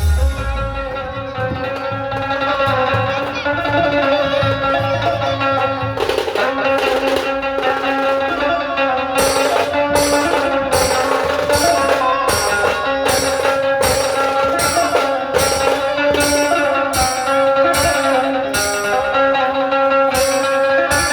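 Dhumal band music: sustained melody over a bass line, drums coming in about six seconds in, then a steady beat of high cymbal-like strikes.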